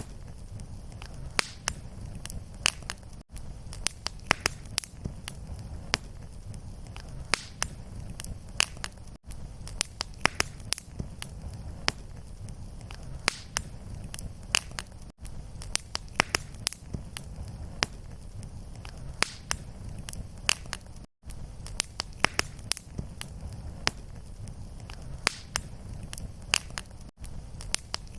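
Fireplace fire crackling: frequent sharp pops and snaps over a low, steady rumble of flames. The sound drops out briefly about every six seconds where the recording loops.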